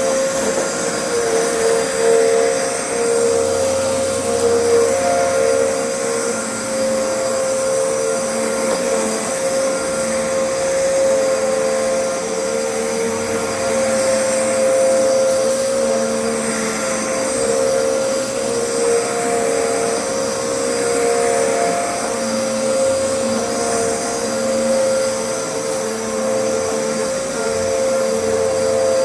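Vacuum cleaner running steadily, its motor giving a constant whine over the rush of air, with a slight waver in tone as it is pushed about.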